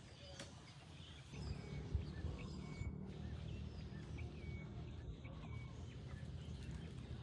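Faint, scattered bird chirps over a low steady rumble that gets louder about a second in.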